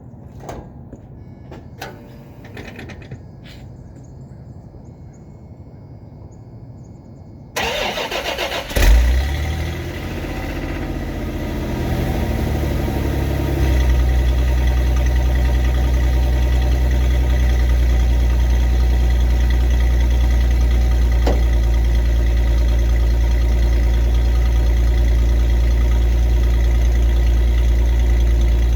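A few faint clicks and knocks, then the 1989 Dodge Dakota's 3.9-litre V6 is cranked by the starter for about a second, catches with a loud burst and settles into a steady idle. The exhaust runs through a Thrush turbo muffler with no catalytic converters, giving a mild but deep note.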